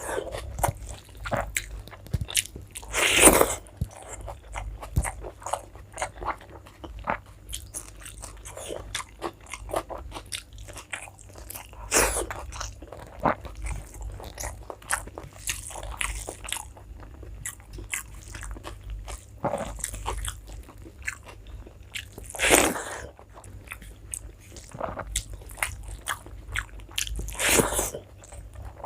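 Close-miked eating: steady chewing, biting and wet mouth sounds of a rice-and-curry meal. Four louder bursts stand out, a few seconds in, near the middle, and twice toward the end.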